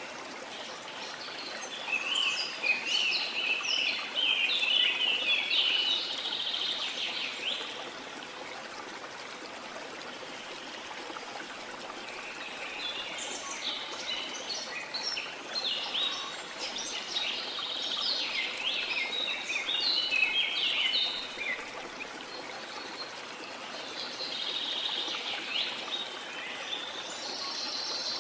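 Steady rush of falling water under birds singing in three bouts of quick, high chirping phrases, with short lulls between them where only the water is heard.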